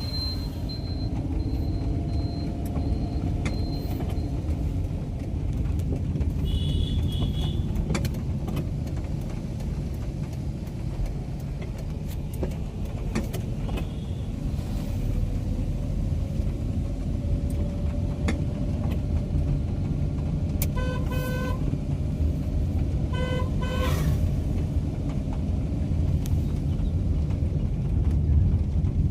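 Car driving in road traffic with a steady low rumble of engine and tyres. Car horns give short toots, one brief high toot about a quarter of the way in and two clusters of quick honks later on, a few seconds apart.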